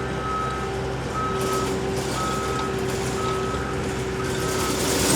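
Loader's backup alarm beeping about once a second over the machine's steady engine, the sign that the machine is reversing.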